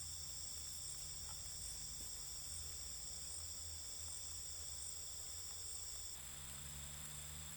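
Insect chorus: several steady high-pitched trills sounding together, one of them cutting out about six seconds in, over a faint low rumble.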